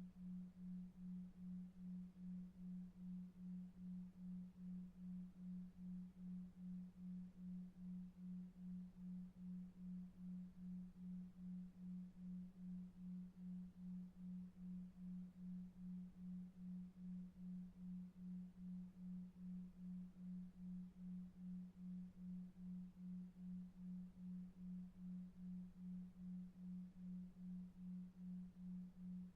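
A soft, low pure tone pulsing evenly about two and a half times a second: a 2.5 Hz delta-wave sleep tone. Beneath it is a much fainter low rush of brown noise.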